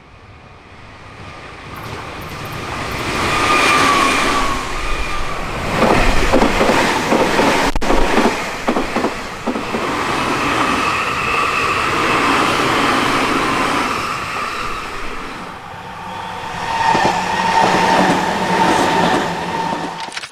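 Nankai Main Line electric express train passing at speed, building from faint to loud over the first few seconds, its wheels clacking over rail joints together with a whining motor tone.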